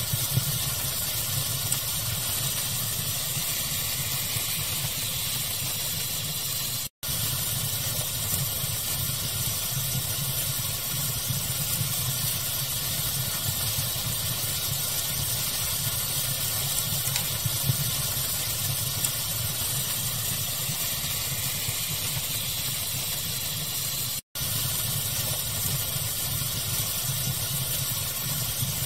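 Fire ambience of steady pink-noise hiss over a low rumble, with a few faint crackles. The sound cuts out completely for a split second twice, about seven seconds in and again a few seconds before the end.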